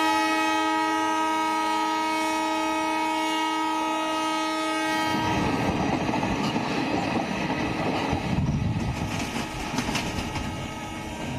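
Train horn sounding one long steady chord for about five seconds, then it stops and the rumble and clatter of a moving passenger train's coaches takes over.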